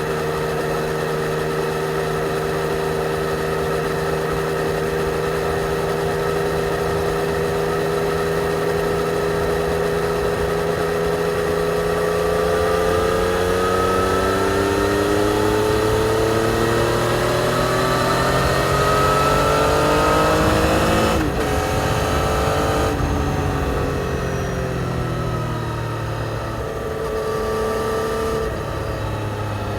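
2020 Yamaha XSR900's 847 cc inline three-cylinder engine through its stock exhaust, ridden on the road. It holds a steady note, then pulls up in revs over several seconds before the pitch drops sharply about two-thirds of the way through as it shifts up, then eases off and settles back to a steady cruise.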